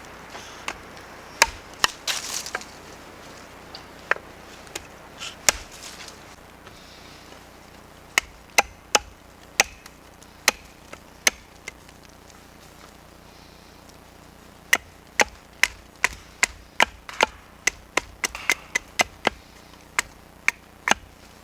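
Wood being chopped by hand for the campfire: a long series of sharp wooden knocks, scattered at first, then steadier strikes that quicken to about two a second after a short pause.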